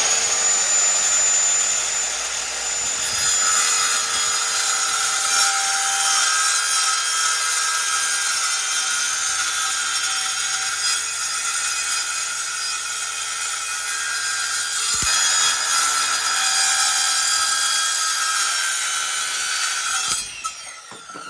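Power saw spinning up with a rising whine and running through a long cut, steady throughout, stopping near the end.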